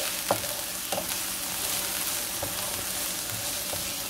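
Onion and minced garlic sizzling steadily in oil in a nonstick frying pan, stirred with a wooden spatula that knocks against the pan a couple of times in the first second or so.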